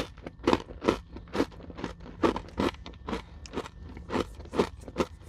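Close-miked chewing of a crunchy Nature Valley peanut butter granola bar: a steady run of sharp, dry crunches, about two to three a second.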